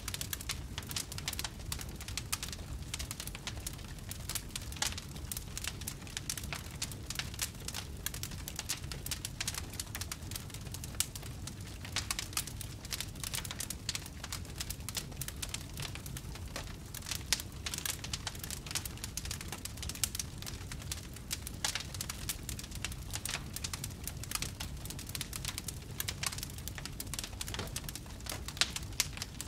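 Wood fire in a fireplace crackling and popping: a dense run of small sharp pops over a low, steady rumble.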